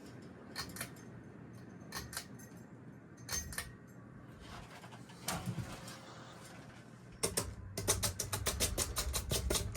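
52-inch hugger ceiling fan spinning down after being switched off: a faint low whir with scattered ticks, then a quick run of clicking and rattling from about seven seconds in.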